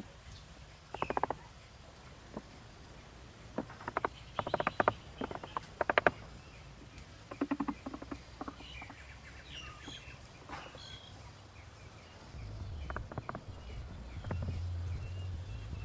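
Short bursts of rapid clicking and scratching, loudest a few seconds in, with faint bird chirps in the middle and a low hum coming in near the end.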